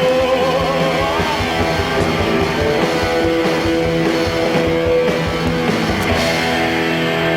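Live rock band playing an instrumental passage: guitars holding long notes over fast, steady drumming.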